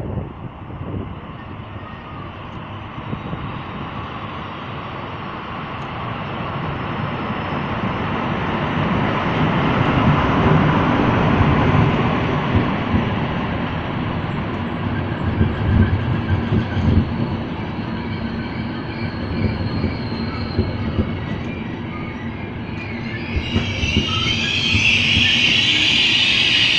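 Intercity train hauled by an E444 electric locomotive running into a station, its wheels rumbling and knocking over the rail joints. Near the end a loud high-pitched squeal sets in as the train slows to stop.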